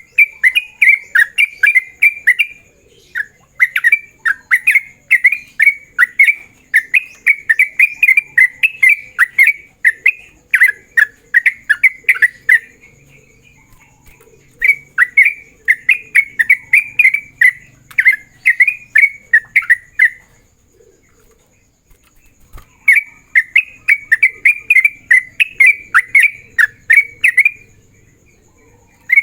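Yellow-vented bulbul (trucukan) singing its rapid 'ropel' song: long runs of quick, repeated bubbly notes, several a second, broken by short pauses. It is the persistent calling song used to provoke and lure rival bulbuls.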